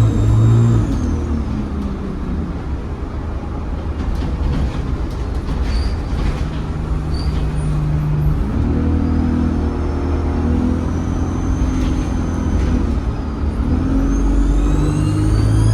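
ADL Enviro 200 bus engine and turbocharger heard from on board: the high turbo whistle falls away at the start as the bus eases off, and the engine runs lower through the middle. Near the end the engine picks up again and the whistle rises as the bus accelerates.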